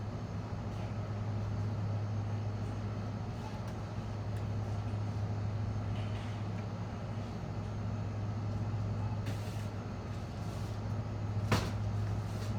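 Steady low mechanical hum, with a single sharp click about eleven and a half seconds in.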